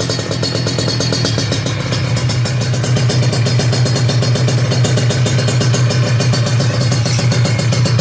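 Motorcycle engine running through an aftermarket racing exhaust, held at steady raised revs. It gets a little louder about three seconds in and holds there.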